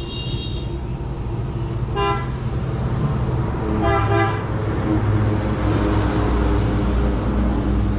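Road traffic with vehicle horns honking: a horn tails off at the start, a short toot comes about two seconds in and a longer one about four seconds in, over a steady engine rumble.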